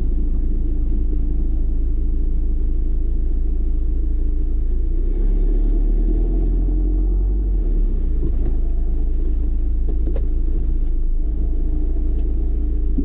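Steady low rumble of a car being driven, engine and tyre noise heard from inside, with a brief click about ten seconds in.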